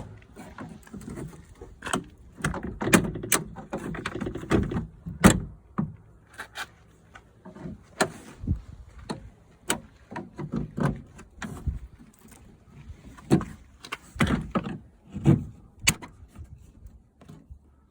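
Irregular clicks, knocks and rattles of hands and tools working at the inside door trim panel of a 1998 Chevy C3500 pickup, trying to get it off.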